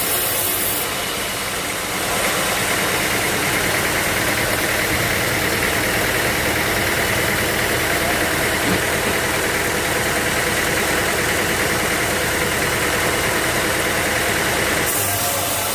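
Sawmill machinery running steadily. A harsher, higher note joins about two seconds in and stops shortly before the end.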